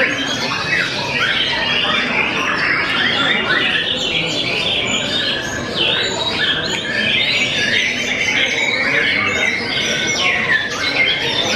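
White-rumped shama singing nonstop: a rapid, unbroken stream of varied whistled notes, harsh squawks and quick sweeps with no pause.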